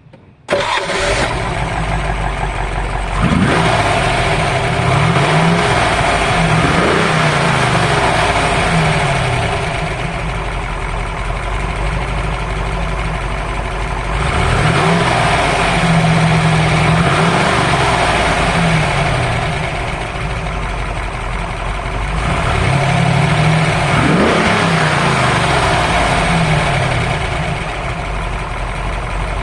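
1965 TVR Griffith 200's 289 Ford V8, with solid lifters, 12.5:1 compression and two four-barrel carburettors, catches and starts about half a second in. It then runs, revved up and down in three rounds with steadier idling between them.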